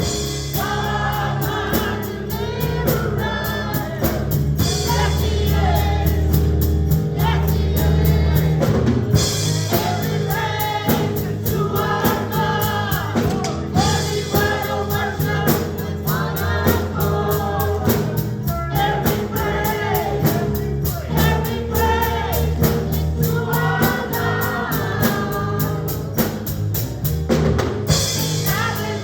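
Gospel choir singing with a band: steady drums, bass and keyboard under the voices.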